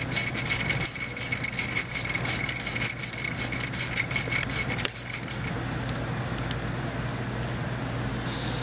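Rapid metallic clicking as the Time-Sert installation driver is turned back out of the new thread insert in the Honda 3.5L block. The clicking stops about five seconds in, leaving a steady low hum.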